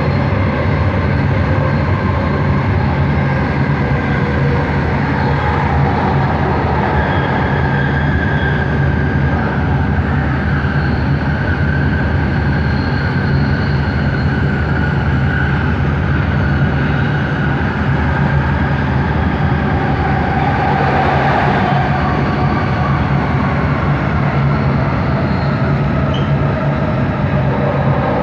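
Bombardier Innovia ART 200 metro train running along the track, heard from on board: a steady rumble with faint whining tones that drift slowly in pitch.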